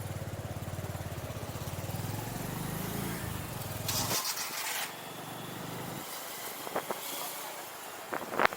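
Motorcycle engine running with a steady, rapid low throb. About four seconds in there is a brief hiss and the low throb falls away. A few short sharp sounds come near the end.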